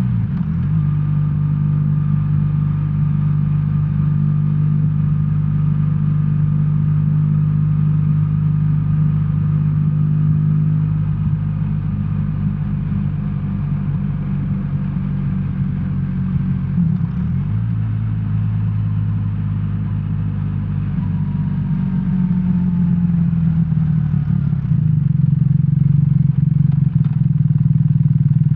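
BMW R1300R's boxer-twin engine running steadily while riding. Its note breaks briefly a little past halfway, then rises and gets louder near the end.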